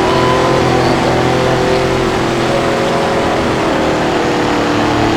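Car engine running while driving, with road noise; the engine note holds fairly steady.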